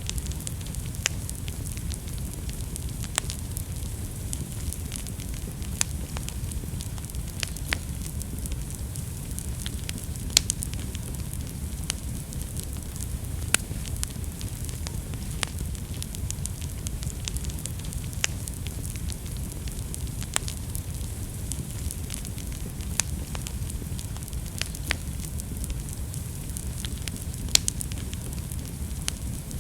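Wood fire burning in a fireplace: a steady low rumble of the flames with irregular sharp crackles and pops from the burning wood, a few louder snaps among them.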